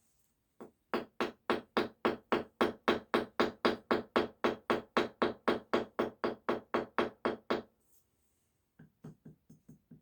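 A hand tool striking or working brick in a fast, even rhythm, about three and a half strokes a second for roughly seven seconds, then a few fainter strokes near the end.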